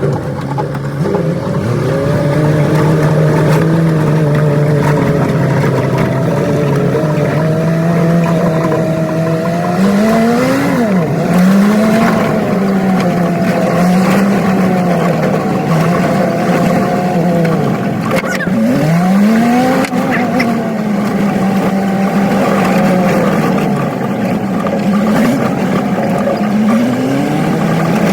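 Old truck's engine running while driving, heard from the cab. Its pitch holds steady, then twice, about ten seconds in and again near eighteen seconds, it drops sharply and climbs back up.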